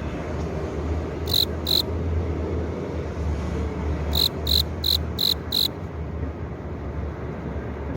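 Male cricket chirping by rubbing its forewings together: two short high chirps, then a run of five at about three a second, the song a male uses to attract a female. A steady low hum lies underneath.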